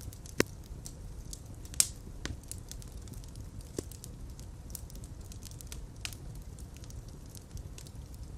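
Fireplace fire crackling over a low, steady rumble of flames, with frequent sharp pops; the two loudest pops come about half a second and two seconds in.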